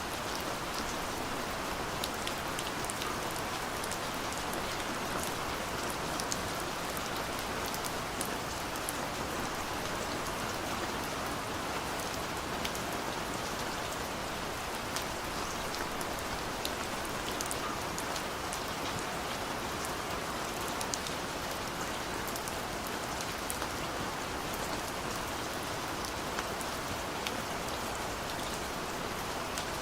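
Steady rain falling, an even hiss dotted with many small, sharp raindrop ticks.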